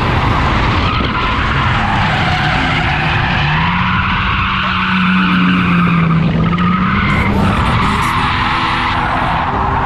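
Ford AU Falcon drift car held at high revs with its tyres squealing through a long, continuous drift; the engine note rises and falls a little partway through.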